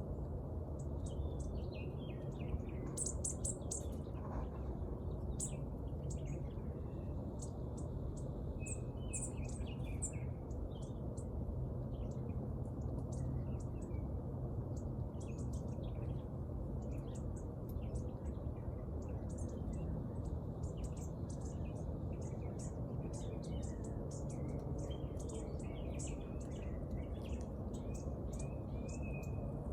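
Several small birds chirping and calling in short, repeated notes and brief trills, over a steady low background rumble.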